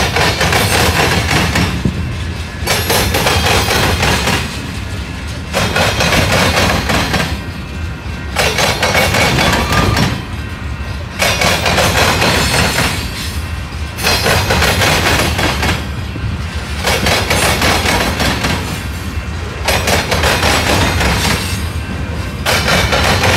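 Freight train of covered hopper cars rolling by: a loud clatter and rumble of steel wheels on rail that swells and eases in a regular cycle about every three seconds as each car passes.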